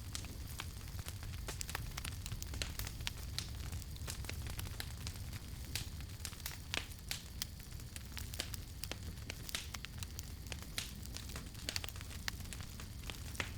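Campfire burning, with frequent irregular sharp crackles and pops of the burning wood over a steady low rumble.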